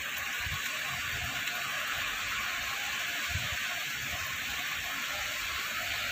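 Steady hiss of rain falling, with irregular low wind buffeting on the microphone.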